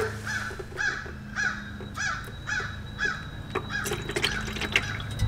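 A bird calling over and over, about two harsh calls a second, over a steady low hum, with a single sharp knock at the start. Beneath it, transmission fluid runs from the open drain plug into a plastic bucket.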